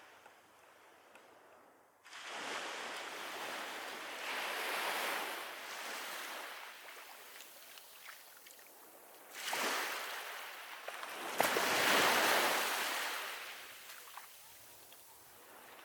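Strong wind and surf on the shore, a rushing noise that rises and falls in several surges, loudest about twelve seconds in, with a sharp click just before that peak.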